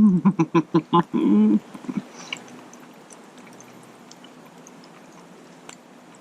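A man's voice making short appreciative "mm" sounds and a longer held "mmm" over the first second and a half while eating steak. Then quieter chewing with scattered faint clicks.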